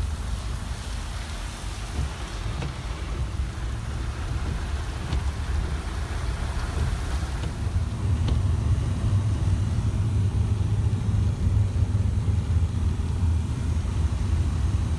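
Car driving through rain, heard from inside the cabin: a steady low rumble of engine and tyres, with the hiss of rain that fades about halfway through.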